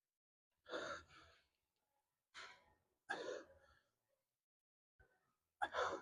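A man breathing hard from exertion while lifting weights: four short, forceful breaths or sighs, a second or two apart.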